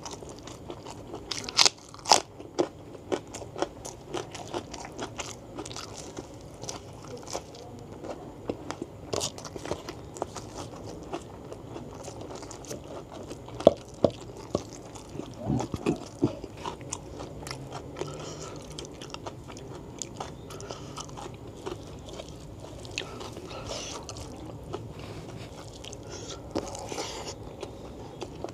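Close-miked mouth sounds of a person eating a beef tendon curry with rice by hand: steady wet chewing with many sharp clicks and occasional crunchy bites. The loudest bites come about two seconds in and again around fourteen to sixteen seconds.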